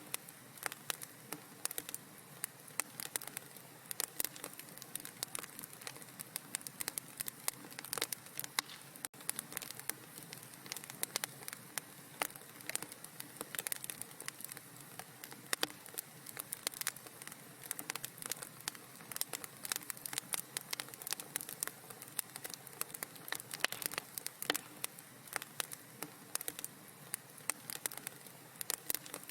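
Wood fire crackling in a fireplace: a dense run of irregular pops and snaps over a steady low hiss, with a momentary break about nine seconds in.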